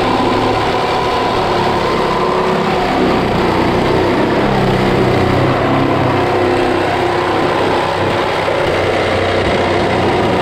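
A small engine running steadily, its pitch drifting a little.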